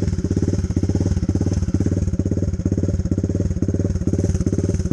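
Dirt bike engine running at low, steady revs, with evenly spaced exhaust pulses.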